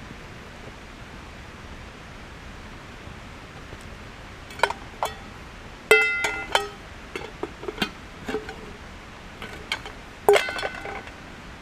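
Aluminium pots and lids of a Trangia cook kit clinking together in a series of sharp, ringing knocks, the loudest about six and ten seconds in, over a steady background hiss.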